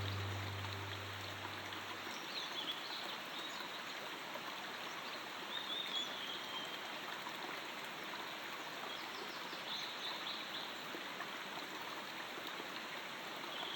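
Steady rushing water like a stream, with a few short bird chirps every few seconds; the low notes of a music track die away in the first two seconds.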